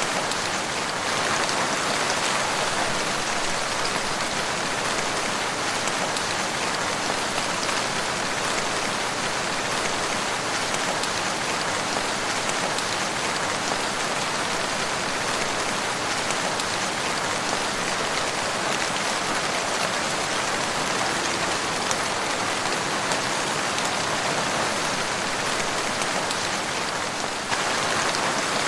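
Steady rain falling, an even pattering hiss with no break.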